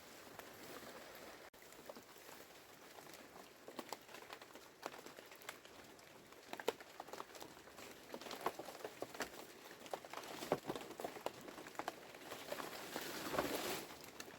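Rain falling: an even hiss with many scattered drips and taps, and a louder rush of noise near the end.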